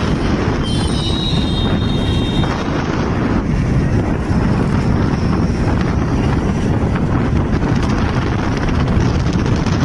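Wind buffeting the microphone on a moving motorcycle, mixed with steady engine and road noise. A faint high tone is heard briefly about a second in.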